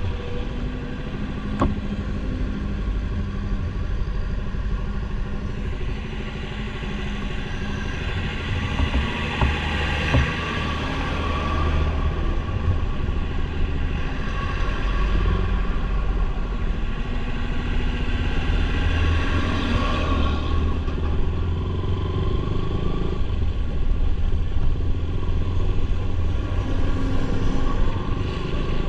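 Motorcycle engine running steadily on the move, with a continuous rumble of road and wind noise that swells a little now and then.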